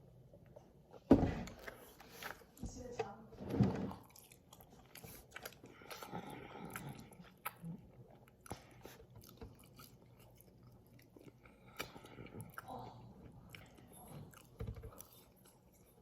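A person biting and chewing orange chicken close to the microphone, with a sharp knock about a second in and scattered smaller clicks.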